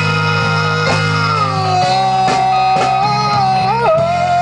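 Live band music: a held chord under a melody line that slides between long sustained notes, with guitar, at the close of the song.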